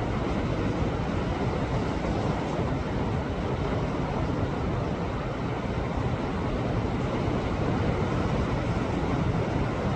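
Sea waves washing against rocks on a rocky shore: a continuous, steady rush of surf, heaviest in the low end, with no single wave crash standing out.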